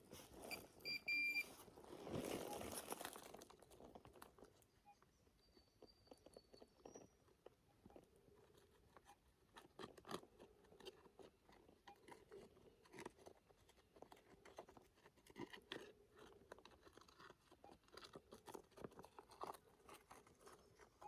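Faint crunching and scraping of digging in hard clay, with a short metal-detector beep about a second in.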